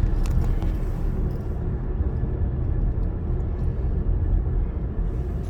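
Steady low rumble of a car running, with a few faint clicks about a quarter of a second in.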